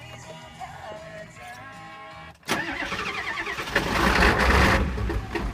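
Ford 7.3 L V8 diesel being cranked on a cold start. The starter turns it over hard for about three seconds, beginning about two and a half seconds in, and it fails to stay running. The hard start comes from the cold after two weeks of sitting, which the owner puts down to bad glow plugs or a bad glow plug controller. Music plays before the cranking begins.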